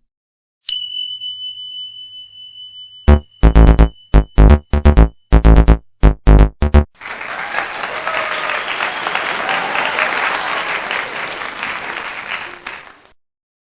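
Edited-in sound effects and music: a held high electronic beep, then a rapid run of very loud, punchy synth hits, then about six seconds of applause that cuts off abruptly near the end.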